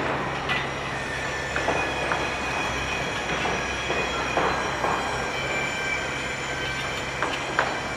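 Heavy machinery: a steady low mechanical drone under a faint high whine, with scattered sharp metallic clicks and knocks.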